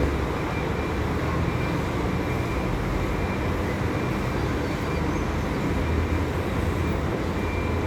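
Diesel engine of a Scania 400 IB double-decker coach running steadily, a low even rumble with a faint high whistle above it.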